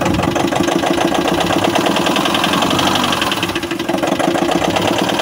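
Nissan NV350 van's diesel engine running with a steady, rhythmic knock. The knock comes from a holed piston in cylinder number 3, damaged by dirt that fell into the cylinder after the intake manifold and EGR were cleaned.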